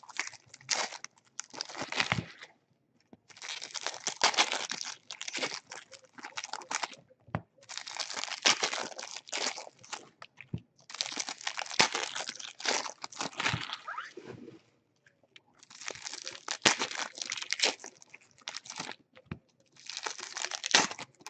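Trading card pack wrappers crinkling and tearing in bursts of a second or few as packs are opened and the cards handled.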